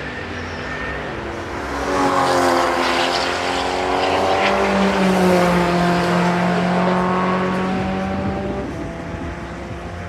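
Race car engine passing close by at speed, swelling about two seconds in, shifting in pitch as it goes past, and fading away after about eight seconds.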